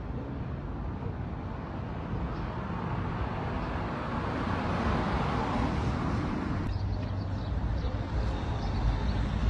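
A motor vehicle's engine running with a steady low hum, the noise swelling and growing louder toward the middle.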